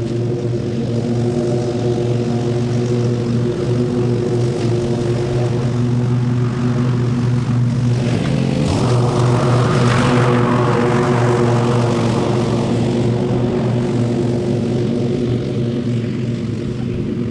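A small engine running steadily at a constant speed. About eight seconds in, a louder, rougher rush of noise swells over it, peaks, and fades away over the next few seconds.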